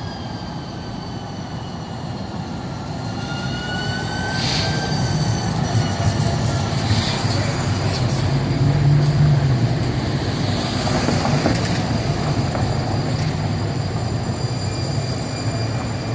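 An electric streetcar passes on its rails, growing louder to a peak about halfway through and then fading. High, thin squealing tones from the wheels and drive slide slowly in pitch over a rumbling of wheels on track.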